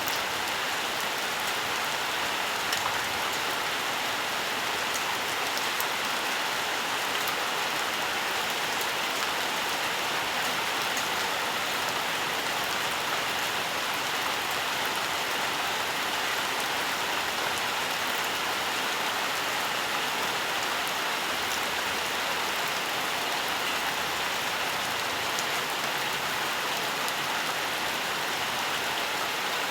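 Steady rainfall, an even hiss with scattered fine drop ticks, unchanging in strength.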